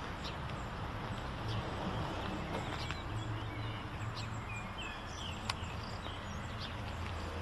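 Steady background noise with a low hum, scattered faint clicks, and a few faint chirps about halfway through.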